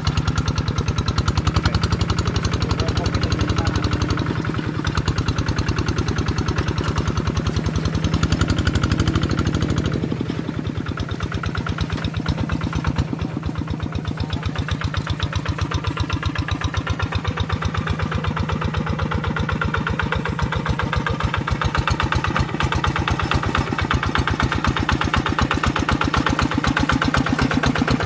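Tractor engine running steadily with a fast, even firing beat, easing slightly for a few seconds near the middle.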